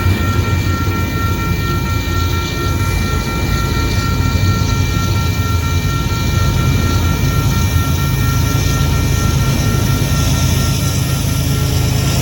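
Train passing close by on the tracks: a steady, loud low rumble with several steady high tones running through it.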